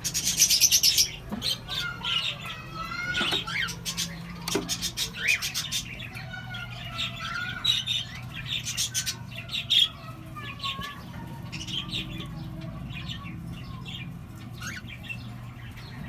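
Cockatiels chirping and squawking: many short calls, some sliding up or down in pitch, with a harsh burst in the first second.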